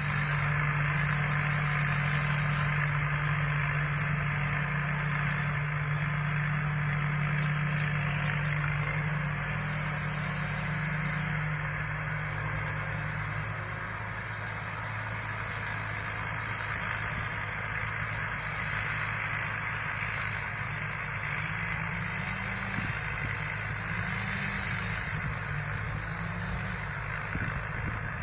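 Combine harvester's engine running steadily with a low hum; about halfway through, its pitch drops a step and it runs a little quieter at a lower speed.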